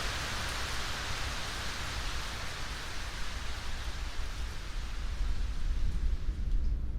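Steady rain hiss that thins out, with a low rumble of thunder building near the end.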